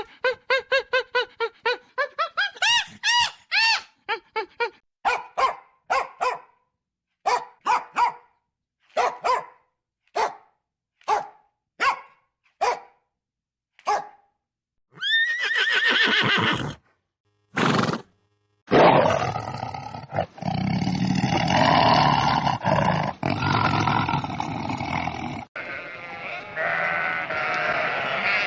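A sequence of animal calls: first a run of quick, pitched calls, then short calls about once a second, then two longer calls. From about two-thirds of the way in comes a dense stretch of many overlapping calls over a noisy background.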